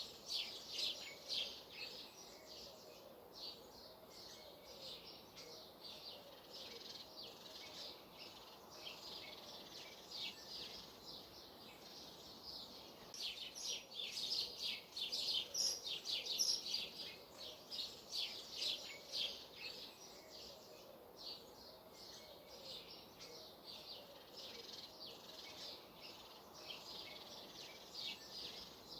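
Small birds chirping in bursts of rapid high notes over a faint steady outdoor hiss. The busiest bursts come at the start, again around the middle, and briefly near the end.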